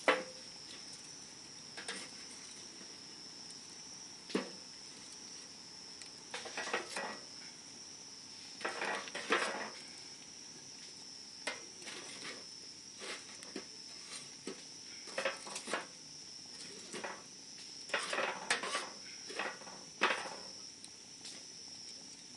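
Wood campfire crackling, with irregular sharp pops and short clusters of crackles over a steady high thin tone.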